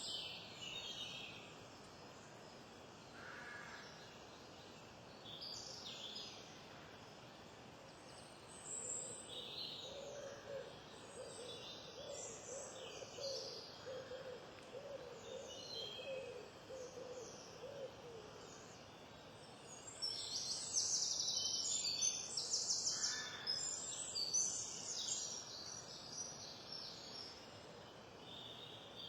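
Wild songbirds calling and singing: scattered high chirps and song phrases throughout. Midway there is a run of low notes repeated evenly, about two a second, and a bit later the loudest part, a burst of rapid high trilling song lasting a few seconds.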